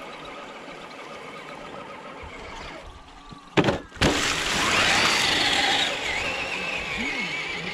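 Electric motor of a scale RC crawler truck whining, with two sharp knocks about three and a half seconds in. After them the whine gets louder and swings in pitch as the motor revs, then settles into a steady high whine.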